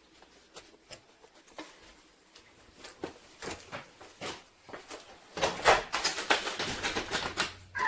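A run of short taps and rustles, sparse at first, then louder and busier about five and a half seconds in.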